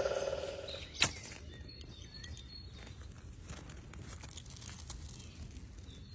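Outdoor ambience: one sharp click about a second in, then faint scattered crackles and clicks, with a few short, high bird chirps.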